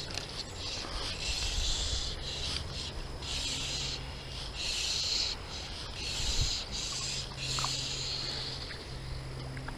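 Fly line being stripped in by hand through the rod guides while a hooked fish is brought in: a rasping hiss in a string of uneven strokes, each about half a second to a second long.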